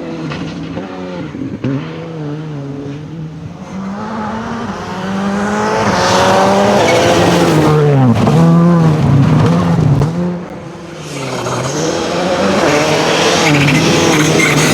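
Rally car engine revving hard and changing gear, the pitch climbing and dropping repeatedly as it grows louder, with a sharp dip about ten seconds in before it picks up again.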